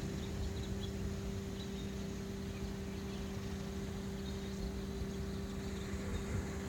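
Wind buffeting the microphone as a fluctuating low rumble, over a steady low hum. A few faint, short, high chirps come through now and then.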